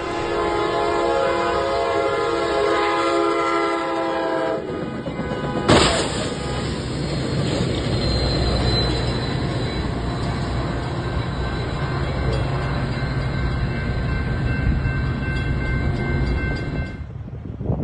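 Train horn sounding a steady chord for about four and a half seconds, followed by a sharp bang about six seconds in, then the steady rumble of a train running past on the rails.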